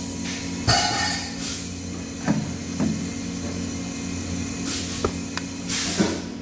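Workshop machinery running with a steady hum, broken twice by a hiss lasting about a second, once near the start and once again about two-thirds through, with a few short knocks in between.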